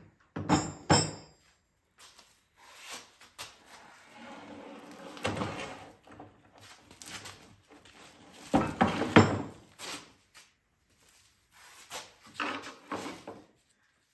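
Tools and engine parts being handled in a workshop: a run of separate knocks and clanks with shuffling between them, the loudest about nine seconds in, and a brief metallic ring about a second in.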